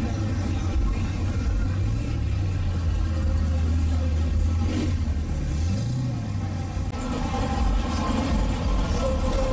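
A car engine running with a deep, steady rumble; its pitch rises and falls once, about six seconds in, as it is briefly revved.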